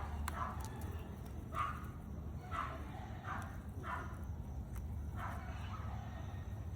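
A dog barking about six times, the barks short and irregularly spaced, over a steady low background rumble.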